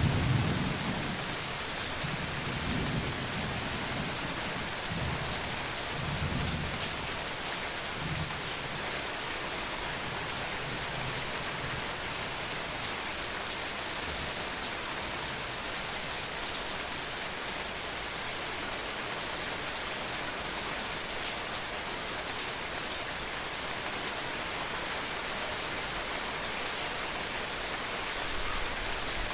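Steady rain falling, with a roll of thunder rumbling at the start that dies away over the first several seconds.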